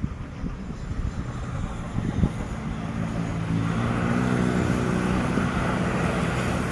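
Landing aircraft's engines growing louder as it approaches, a steady drone with a rising hiss. Wind buffets the microphone in the first couple of seconds.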